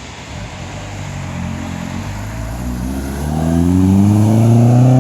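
Car engine accelerating hard, its pitch rising steadily and growing loud over the last two seconds as it comes by.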